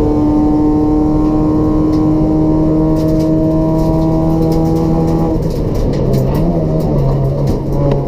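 Toyota Etios race car's 1.5-litre petrol engine with a free-flow exhaust, held at high revs with the pitch climbing slowly. About five seconds in the revs drop away and the note goes lower and wavers.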